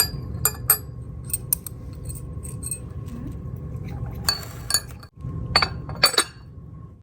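Glass and dishware being handled, with a scatter of sharp ringing clinks, the busiest stretch coming about four to six seconds in.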